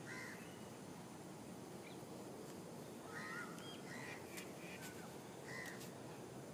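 Distant birds calling outdoors: short calls repeated several times, most of them between about three and six seconds in, with a few faint clicks.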